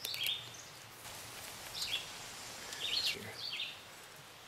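A small songbird calling: about four short, high chirps that each drop in pitch, spaced irregularly, over a faint outdoor hiss.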